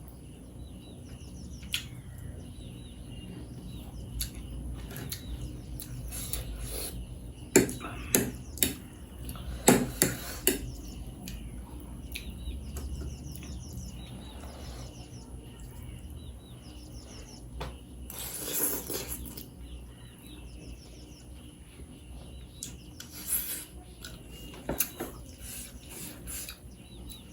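Eating sounds: utensils clinking and scraping against a plate or bowl, with a cluster of sharper knocks about a third of the way in.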